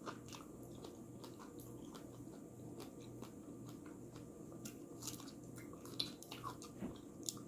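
Faint chewing and small mouth clicks of a person eating, over a low steady hum.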